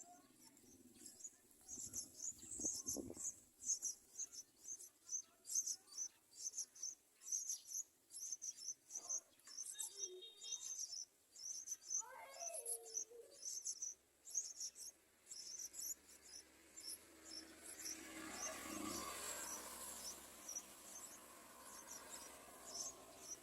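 Yellow-vented bulbul nestlings begging: short, high-pitched cheeps repeated irregularly, one or two a second, with a few lower gliding calls about halfway through.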